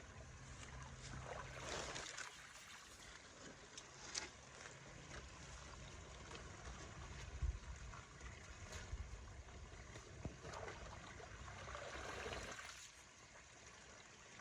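Water trickling and flowing through a partly clogged culvert, swelling now and then, with a few sharp knocks.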